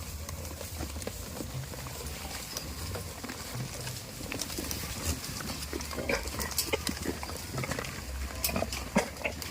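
Goats making short sounds, scattered through the second half with the loudest just before the end, over a steady low rumble.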